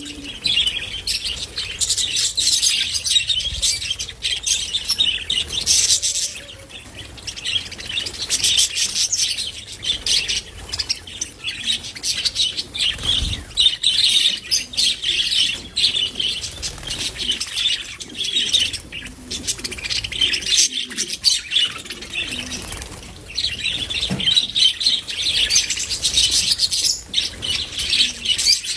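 Several budgerigars chirping and chattering, many quick high chirps overlapping almost without pause.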